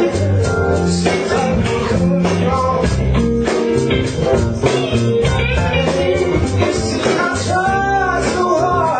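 Blues band playing, with guitar to the fore over a steady beat.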